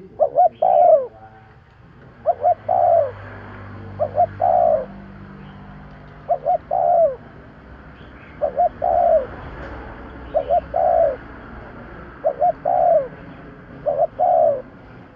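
Spotted dove cooing: a three-note phrase, two short coos and then a longer falling one, repeated about every two seconds, eight times.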